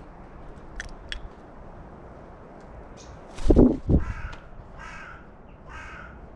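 Carrion crow cawing three times, short calls about two-thirds of a second apart in the second half. Just before the calls come two loud low thumps, the loudest sounds, and earlier a couple of faint clicks.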